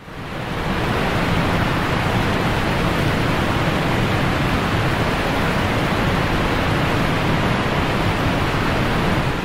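Loud, steady rushing noise, fading in over the first second and cutting off abruptly at the very end.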